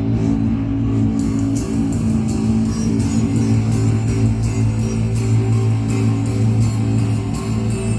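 Amplified live band music during a stage sound check: guitar and bass holding low notes, with a steady high ticking beat, about two a second, coming in about a second in.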